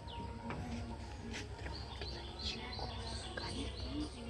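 Small birds chirping repeatedly in quick, short notes over a steady low background rumble.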